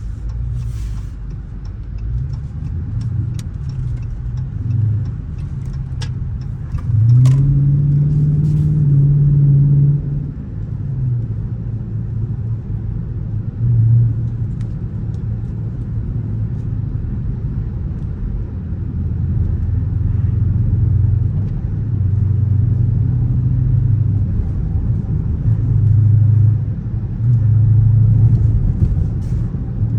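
Dodge Charger R/T's 5.7-litre HEMI V8 running under way, pulling hard about seven seconds in with its note climbing and held for roughly three seconds before easing off. Shorter surges of throttle follow near the middle and near the end.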